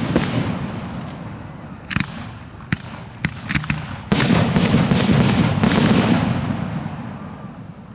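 Professional display fireworks going off: a few separate sharp bangs, then from about four seconds in a dense barrage of crackling reports that fades away near the end.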